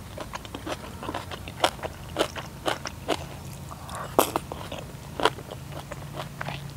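A person eating close to the microphone: chewing and biting, with irregular sharp clicks scattered through.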